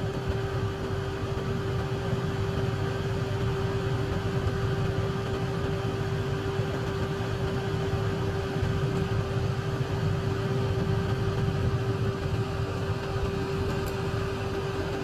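An electric fan running at constant speed: a steady hum with one clear, unchanging tone above a low rumble.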